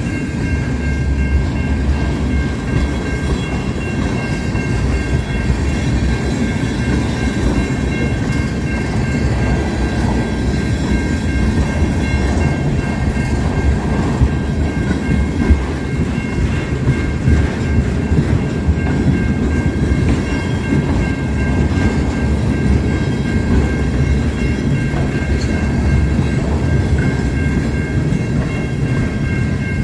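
Freight train of tank cars and gondolas rolling past: a steady rumble and clatter of steel wheels on the rails. Over it a level-crossing warning bell rings continuously.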